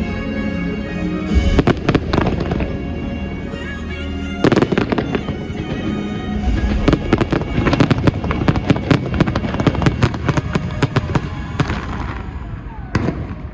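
Fireworks going off over the show's music: a dense run of bangs and crackles starts about four seconds in and thins out near the end as the music fades, with one last burst just before the end.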